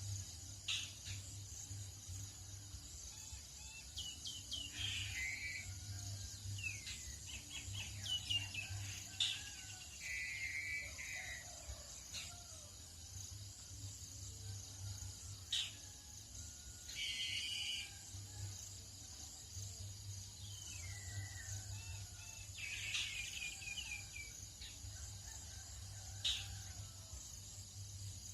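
Birds singing and calling at dawn: short chirps and quick descending trills come every few seconds over a steady high insect drone, with a low hum underneath.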